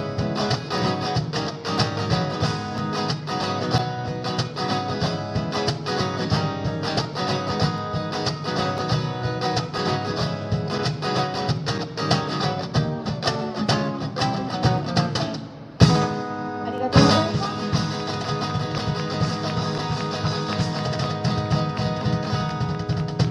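Live guitar music, strummed and picked, closing out a song. About two-thirds of the way through it dips briefly, then two hard accented strums follow a second apart before the playing carries on.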